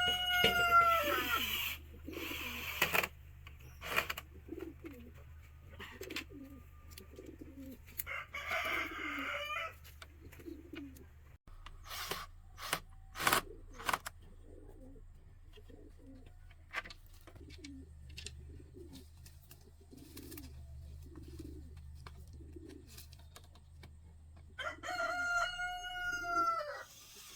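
A rooster crowing, once right at the start and again in one long call near the end. Between the crows, a low short call repeats about once a second, and a few sharp knocks sound in the middle.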